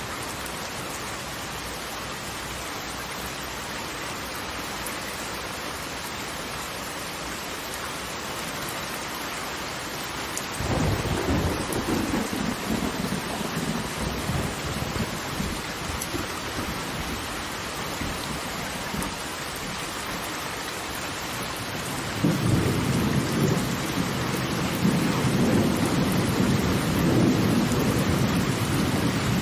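Steady rushing hiss of falling water from a waterfall. Two long, low rumbles rise over it: one starts suddenly about a third of the way in and fades after several seconds, and a louder one starts about three-quarters of the way in and keeps going.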